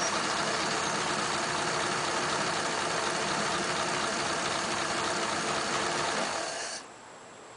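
Flathead V8 of a 1941 Ford pickup idling steadily, then shut off near the end, dying away within about half a second. The owner believes it is now running alright, with its Holley Ford 94 carburetor no longer flooding.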